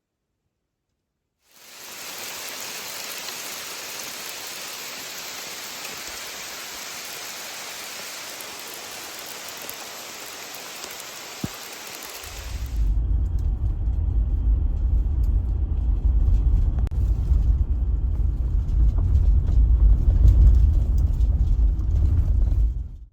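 Steady hiss of rain. About halfway through it gives way to a much louder low rumble, which then runs on and cuts off suddenly at the end.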